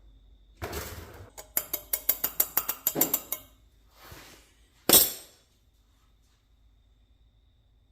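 A short scraping rustle, then a quick run of about a dozen sharp, ringing clinks of hard objects tapping together over two seconds, and a single loud knock about five seconds in.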